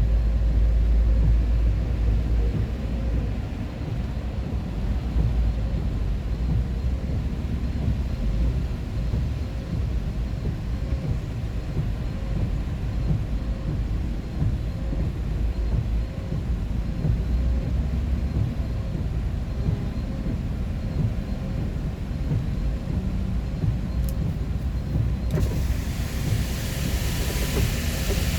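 Road vehicle driving, a steady low rumble throughout; about 25 seconds in a higher hiss of wind or road noise joins it.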